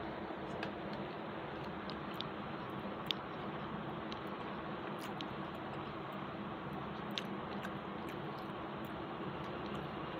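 A person chewing a mouthful of rice and fried snake gourd, with small sharp clicks now and then, over a steady background hiss.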